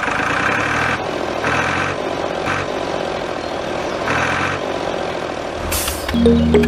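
An engine running, surging and easing off about four times. Music comes in near the end.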